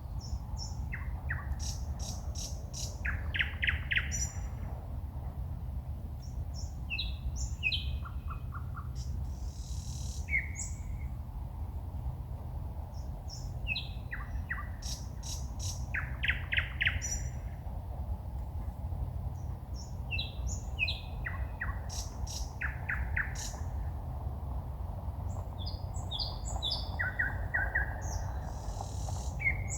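A songbird singing at night in separate phrases of clicks, short whistles and fast runs of repeated notes, a new phrase every five or six seconds, over a steady low rumble.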